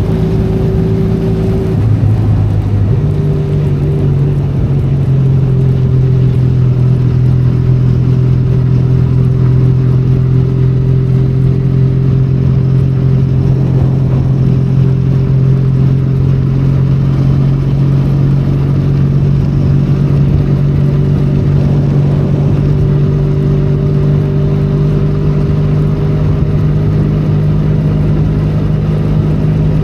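Benelli Leoncino 500's parallel-twin engine running on the move, its note stepping up about two seconds in and then holding steady.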